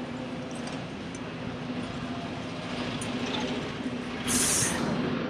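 City street traffic, with a heavy vehicle's engine running steadily at a low hum. A short, loud hiss of released air, like an air brake, comes about four seconds in.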